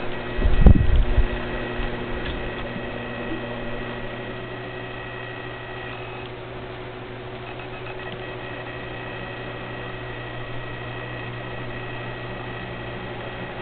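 Steady machine-like hum with faint high steady tones over it, and one dull low thump just under a second in.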